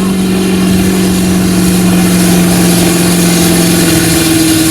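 Diesel pickup truck engine held at high, steady revs under load while pulling the sled, its pitch edging up slightly near the end.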